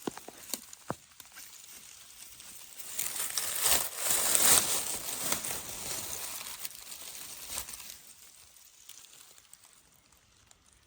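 Rustling of leaves and foliage that swells about three seconds in, peaks, and fades away by about eight seconds, with a few sharp snaps near the start.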